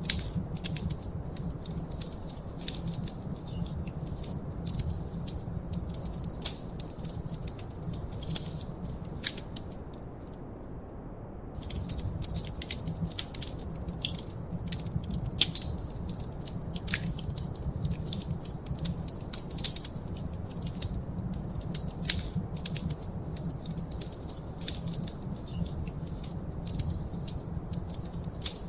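Wood fire crackling in a fireplace: frequent sharp, irregular pops and snaps over a steady low rumble of the flames. The crackling stops for about a second and a half a little over a third of the way in, leaving only the low rumble, then resumes.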